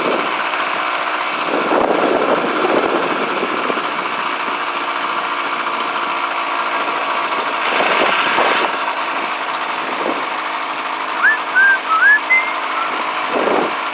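Motorized bicycle's small gasoline engine running steadily while being ridden. A few short, high rising chirps come near the end.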